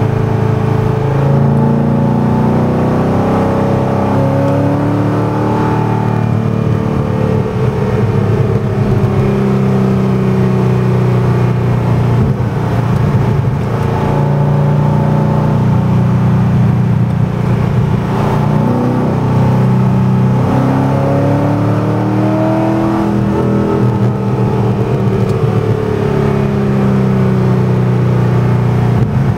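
Corvette C6 Z06's 7.0-litre LS7 V8 through Melrose longtube headers and Billy Boat Fusion mufflers, driven under power. The engine note climbs and falls in pitch several times as it accelerates and comes off the throttle.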